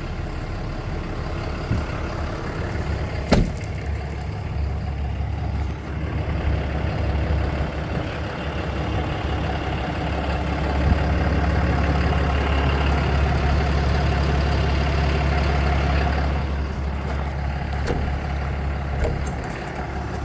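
Dodge 5500 truck's engine idling steadily while it warms up, the idle louder for several seconds in the middle. There is a single sharp knock about three seconds in, and a few lighter clicks near the end.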